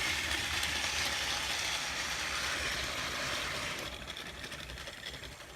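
A small motorized toy train's geared motor running steadily, then fading away near the end as the engines move off.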